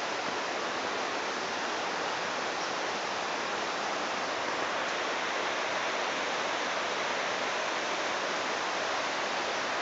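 Running water from a stream, a steady, even rush.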